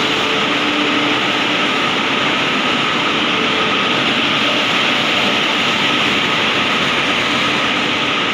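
Steady whirring hum and hiss of a standing electric train's cooling and ventilation blowers running, with a few faint steady tones in it.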